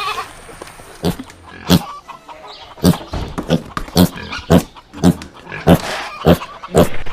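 An animal giving a series of short grunts, a little under two a second, starting about a second in.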